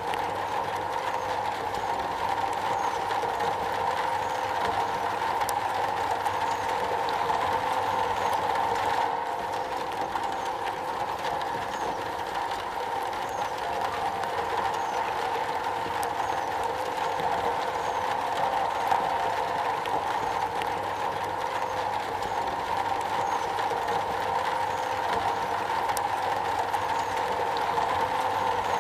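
Steady rain drumming on a metal roof, a dense unbroken patter.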